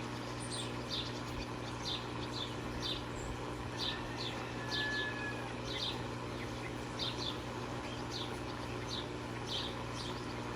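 A bird chirping over and over: short, high, falling chirps about two a second, over a steady low hum.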